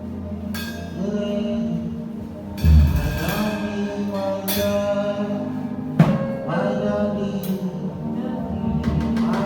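Live gospel band music with a voice singing over steady bass and keyboard notes. Sharp percussion hits land about a quarter of the way in and again about two-thirds of the way through.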